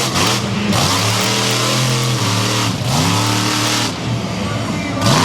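Monster truck engine revving hard: it is run up and held, eases off and comes back up again about three times.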